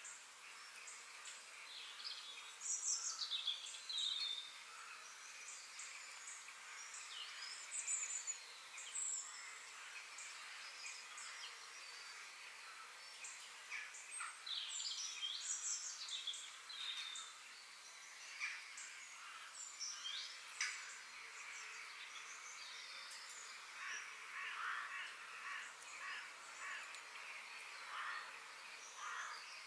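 Several forest birds singing and chirping over a faint steady background hiss, with short whistled notes and quick chirps overlapping and some brief trills.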